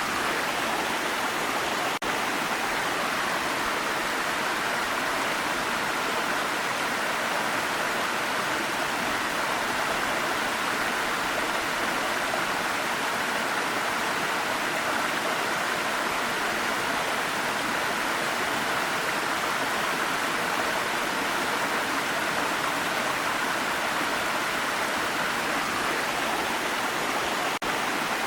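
Waterfall water rushing as a steady, even noise, with two momentary drops in level, one about two seconds in and one near the end.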